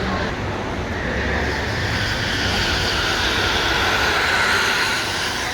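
Vehicle noise: a rushing sound that builds over about four seconds and eases off near the end.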